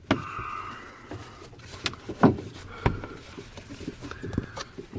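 Scattered clicks, knocks and rustles of handling inside a glider cockpit, the loudest knock a little after two seconds, with a faint short tone just after the start and again about four seconds in.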